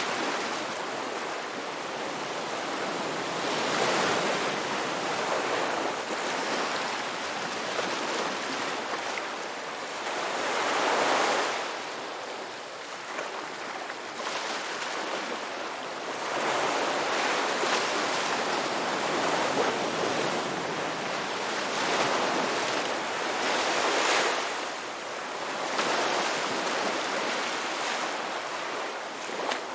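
Ocean waves breaking and washing up on a rocky beach, the surf swelling and falling every few seconds.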